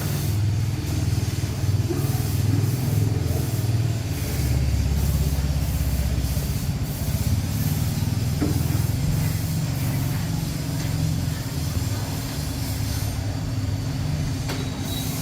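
A motor or engine running steadily with a low hum, the level fairly even throughout.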